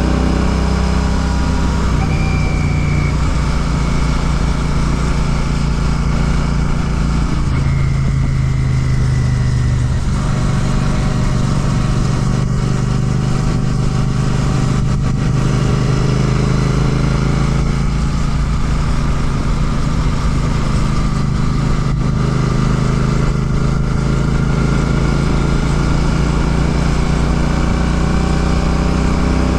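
Royal Enfield Classic 650's 648 cc parallel-twin engine running through an aftermarket Ngage exhaust while riding, a steady, deep exhaust note. The pitch shifts in steps a few times in the first ten seconds, then holds even.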